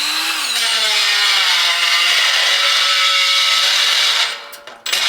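Milwaukee power drill spinning up with a rising whine, then boring into the steel chassis of a race car at a suspension mounting point, with a steady harsh cutting noise. It stops briefly and starts again near the end.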